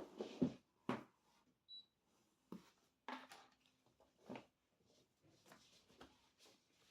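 Gift-box packaging handled by hand: short rustles and light knocks of cardboard and paper. A handful of distinct ones come in the first four or five seconds, and fainter ones follow.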